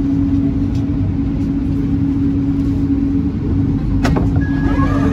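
Steady low hum and rumble inside a Bombardier Innovia ART 200 light-rail car standing at a station. A click comes about four seconds in, and a high steady beep starts near the end.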